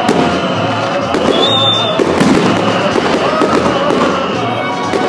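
Fireworks salute: aerial shells bursting and crackling continuously, one after another.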